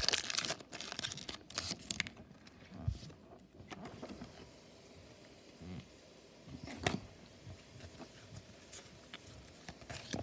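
Crinkling of a foil Pokémon booster pack wrapper for the first couple of seconds, then mostly quiet with a few faint taps and clicks as the cards are handled.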